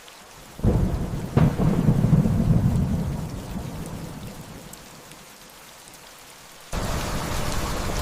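Thunderclap over steady rain: a sudden crack about half a second in, a second crack soon after, and a low rumble that dies away over several seconds. Near the end the rain suddenly grows louder and heavier.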